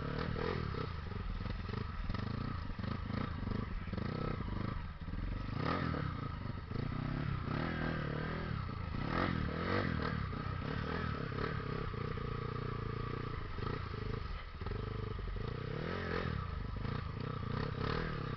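Off-road trail motorcycle engine running steadily, with clattering and knocking over it.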